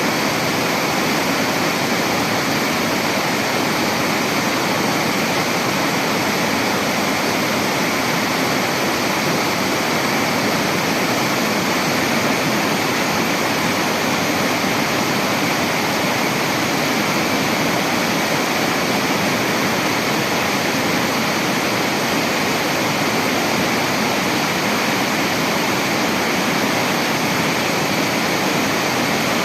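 Steady, loud rushing of water, unchanging throughout.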